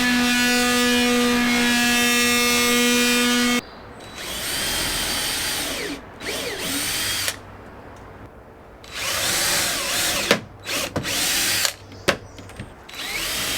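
Power drill boring pilot holes in timber beams. It runs steadily at one pitch, stops about three and a half seconds in, then comes back in several short bursts with the motor speeding up and slowing down.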